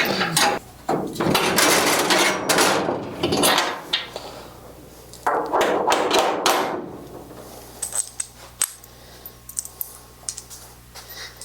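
Metal clanking and rattling of hand tools and steel hardware as a steel frame is worked loose and unbolted: two louder scraping, rattling stretches in the first seven seconds, then scattered light clinks.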